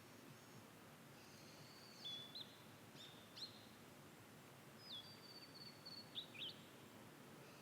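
Ashy minivet calling: high, thin trilled calls in three short bouts, faint over a steady background hiss.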